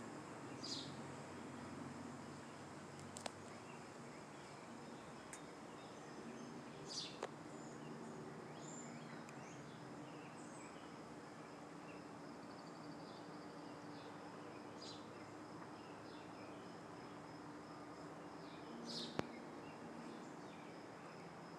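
Faint birdcalls: short high chirps every few seconds over a steady low hum, with a few soft clicks.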